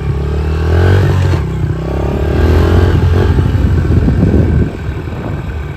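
Honda CRF110 pit bike's small single-cylinder four-stroke engine revving as it accelerates, the pitch climbing twice, then easing off and dropping quieter near the end.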